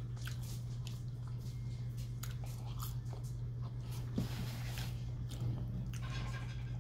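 A person chewing French fries, with small wet mouth clicks and smacks, over a steady low hum.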